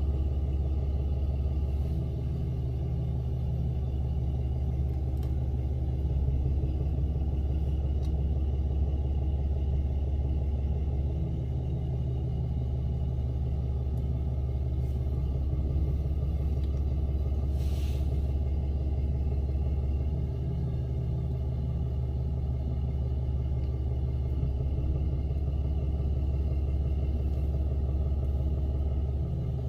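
Tow truck's engine running steadily with a low, even rumble and no revving.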